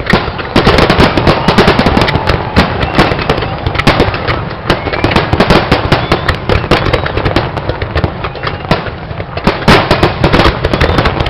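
Fireworks display: a dense, continuous barrage of bangs and crackling, with a few faint whistles rising through it.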